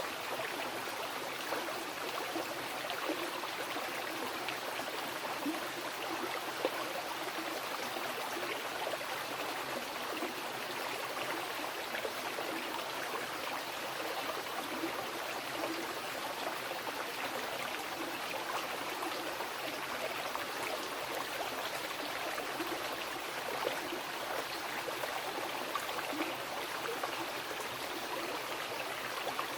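Wild river flowing: a steady rush of water with small splashes and gurgles now and then.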